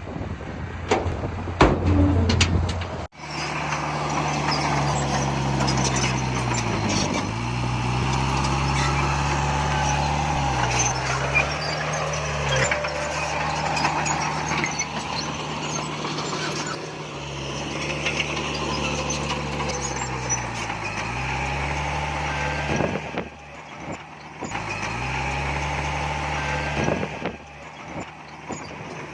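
Heavy diesel earthmoving machine's engine running under load, its pitch dipping and recovering several times. Knocks and clatter in the first three seconds, then the sound changes abruptly to the steady engine.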